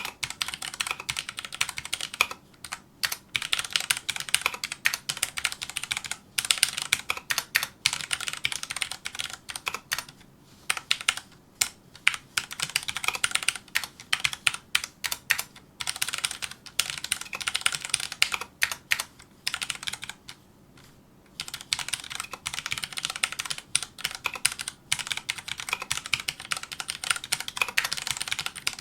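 Filco Majestouch2 mechanical keyboard with Cherry MX Brown switches being touch-typed fast: rapid runs of keystroke clacks, several a second, with short pauses between bursts and one longer pause about two-thirds of the way through.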